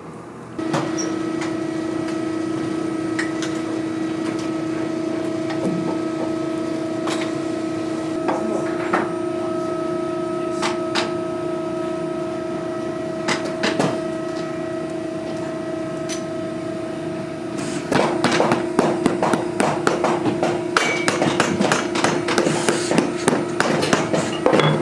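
A workshop machine's motor starts about half a second in and runs with a steady hum, with occasional sharp taps. About 18 seconds in, a dense run of rapid clicks and taps begins over the hum.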